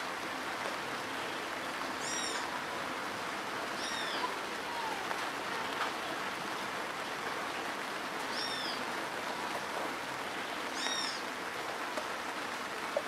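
Steady rain falling on a wet dirt road and its puddles, an even hiss. A bird chirps four times over it, short arching high calls.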